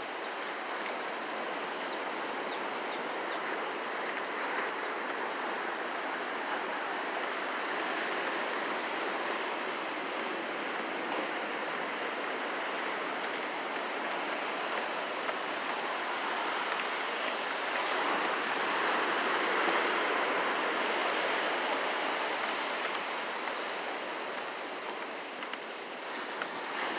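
Ocean surf washing in steadily below a fishing pier, swelling louder for a few seconds past the middle.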